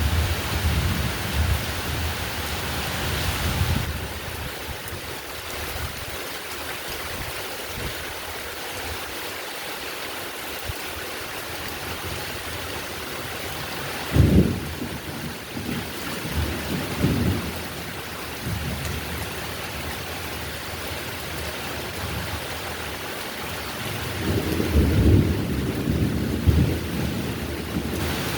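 Heavy rain falling steadily, with thunder: low rumbling in the first few seconds, a sudden loud clap about halfway, and a long roll building near the end.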